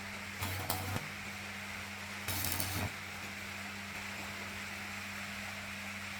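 A steady low mechanical hum, with two short scraping noises about half a second each, one near the start and one about two seconds in.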